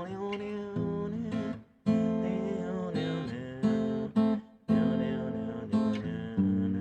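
Acoustic guitar strumming chords in an instrumental break between sung lines, with two short stops in the strumming.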